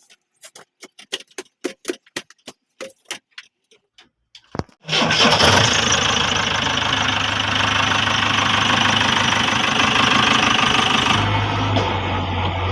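A series of sharp clicks, then the diesel engine of a JCB 3DX backhoe loader starts about five seconds in and runs steadily. Near the end the sound changes abruptly to a deeper, steadier hum.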